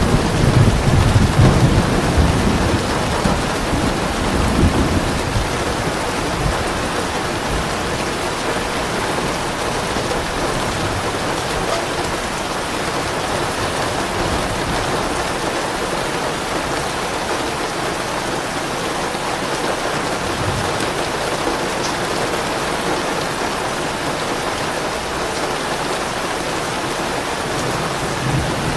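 Steady heavy rain falling, with a low rumble of thunder in the first few seconds that fades out by about five seconds in.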